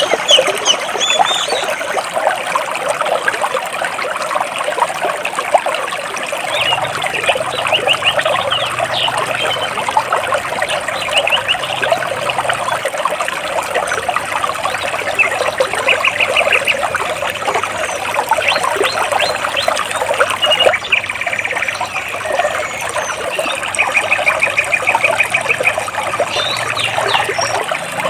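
Water trickling and babbling between rocks, with small birds chirping and giving short rapid trills over it now and then.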